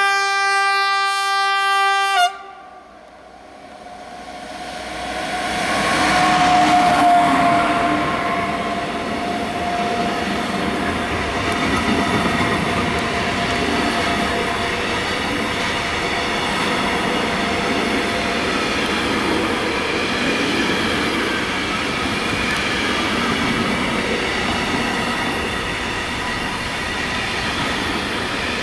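Siemens ES64F4 electric locomotive sounding one horn blast of about two seconds that cuts off sharply, then passing close by with a fading high tone. After it comes the steady rumble and clatter of a long intermodal container train's wagons rolling past.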